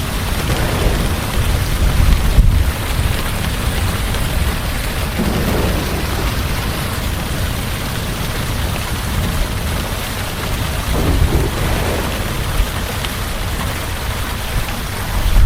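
Heavy rain pouring steadily, with a low rumble of thunder underneath that swells about two seconds in and again near the end.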